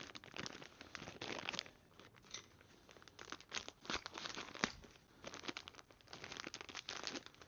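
Packaging of a new wheel bearing kit crinkling and rustling in irregular bursts as the parts are handled and unwrapped.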